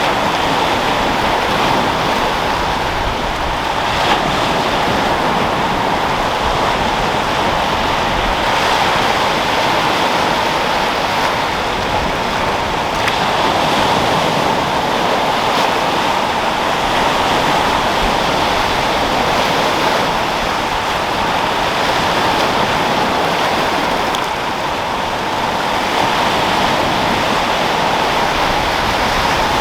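Sea waves washing and breaking in a continuous surf, with wind; the level swells and eases gently without clear single breakers.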